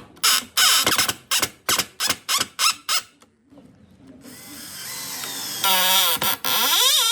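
Power drill run in short trigger bursts, about three a second. After a brief pause it runs longer, its motor whine rising and falling in pitch as the speed changes.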